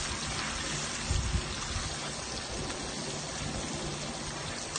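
Shrimp frying in butter in a non-stick pan, a steady sizzle throughout, with a brief dull bump about a second in.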